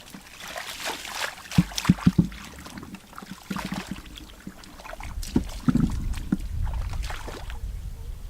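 Water splashing and sloshing as fish are caught by hand, with a quick cluster of sharp knocks about a second and a half in and a low rumble in the second half.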